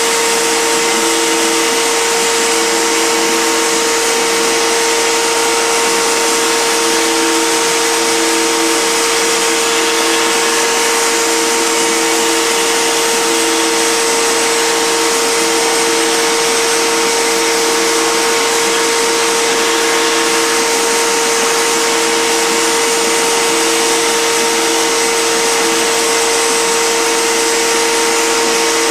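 Hitachi router spindle on a CNC machine running steadily while carving foam: a loud, steady whine over a rushing noise. A lower tone switches on and off throughout as the machine moves.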